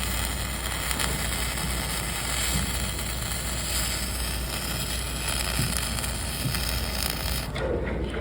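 Dual-shield flux-cored arc welding: the arc crackles and hisses steadily, then stops suddenly shortly before the end.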